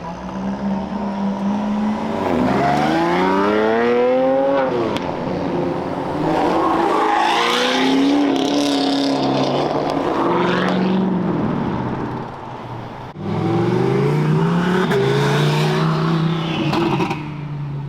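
Car engines revving and accelerating hard as they pull away, one after another. There are several loud pulls, each engine note climbing in pitch and then dropping off.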